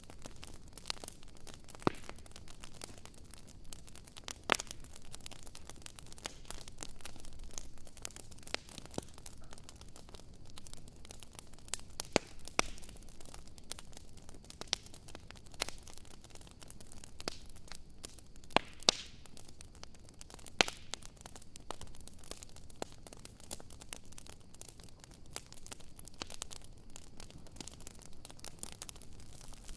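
Wood bonfire burning and crackling: a steady hiss with irregular sharp pops and snaps, a handful of them much louder than the rest.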